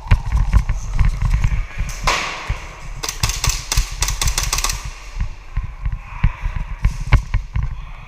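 Airsoft pistols firing: scattered single shots, then a rapid string of about a dozen sharp cracks a little past halfway, over a constant low rumble on the microphone.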